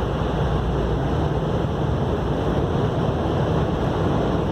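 Tunnel car wash's high-powered air dryers blasting the vehicle, a steady rushing heard from inside the cabin.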